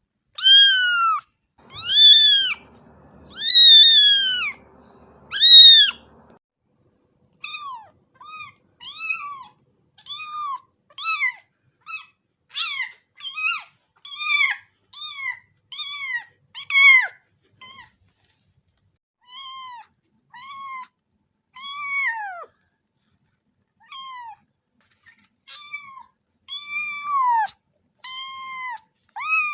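Cat meowing over and over. It gives four long, loud meows, then a run of shorter, quieter meows at about one a second.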